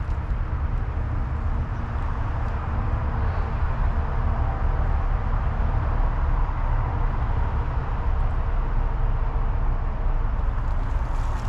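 Steady wind rumble on a chest-mounted camera's microphone, mixed with tyre and drivetrain noise from a Raleigh Trailblazer T6 hardtail mountain bike riding along a dirt trail.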